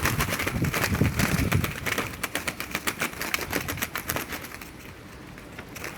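Trapped ring doves flapping and scrambling inside a drop trap, a rapid, irregular run of wing claps and clicks that thins out over the last second or so.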